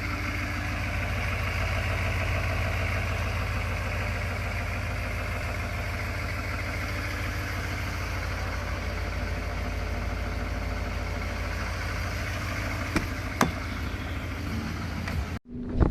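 2019 Chevy Silverado 2500HD's L5P Duramax 6.6-litre V8 turbodiesel idling steadily after a cold start in single-digit temperatures. Two light clicks come a little before the sound cuts off suddenly near the end.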